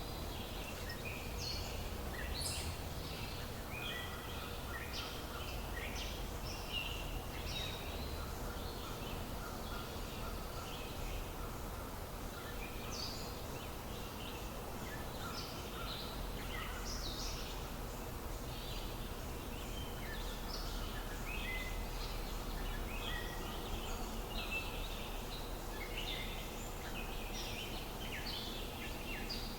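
Many small birds chirping, short high calls coming every second or so, over a steady low rumble and a faint steady hum.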